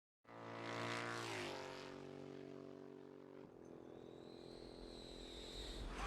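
Aircraft engine drone, its pitch sagging slightly about a second in, then steady until it cuts out halfway through; a faint rising high whine follows near the end.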